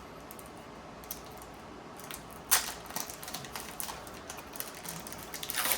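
A trading-card pack wrapper being torn open and the cards handled: a sharp crinkling tear about two and a half seconds in, then scattered small crackles and clicks, growing busier near the end.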